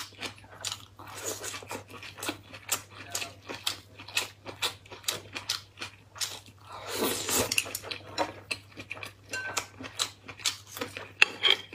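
Close-miked eating: a person chewing food, with a rapid run of short wet clicks from the mouth. About seven seconds in there is a longer, louder noisy sound.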